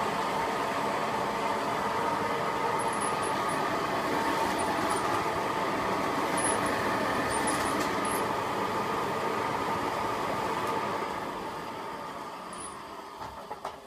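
Hoover Senior 652 upright vacuum cleaner's motor running on its first start after standing unused, then winding down over the last few seconds once switched off. It doesn't sound ever so great, and the owner takes it to need a full strip-down and service.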